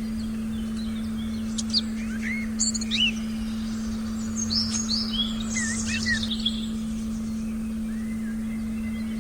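Forest birds chirping and whistling in quick short calls, most of them in the middle, over a steady low continuous tone.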